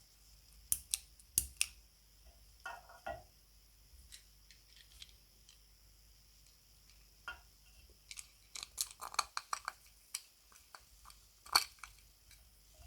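Scattered sharp clicks and light taps of small parts being handled and fitted, in short clusters, with the loudest single click near the end.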